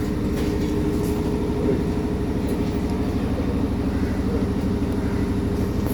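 An engine running steadily: an even, rapidly pulsing low throb with a constant hum.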